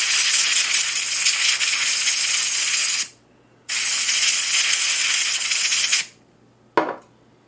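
A pressurised spray can blowing into an opened Zebco 33 reel in two long hissing blasts, the second after a short pause, flushing out moisture and debris. A short sharp click follows near the end.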